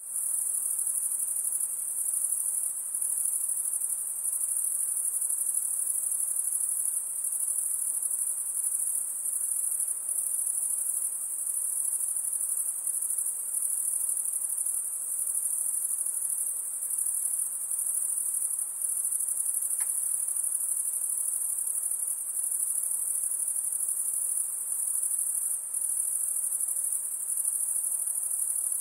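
High-pitched insect chorus: a continuous, very high trill that holds steady, with brief small dips in level.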